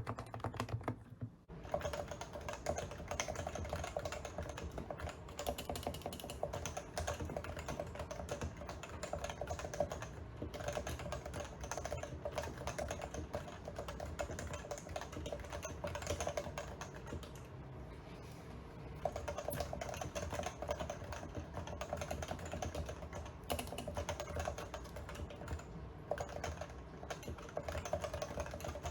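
Fast, continuous typing on an enthusiast keyboard: a dense run of key strikes that starts about a second and a half in and eases briefly a little past the middle.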